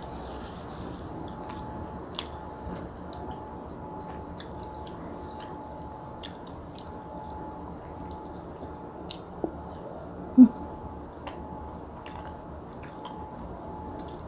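A person chewing mouthfuls of rice and fried eggplant eaten by hand, with small wet mouth clicks and smacks scattered throughout, over a faint steady hum. One short loud thump about ten seconds in.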